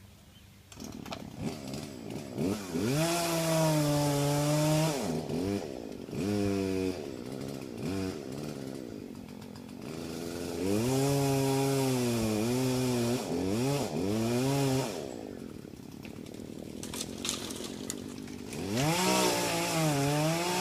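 Gas chainsaw running, revved to full throttle three times for several seconds at a time, with short throttle blips and dropping back to idle in between; it comes in about a second in.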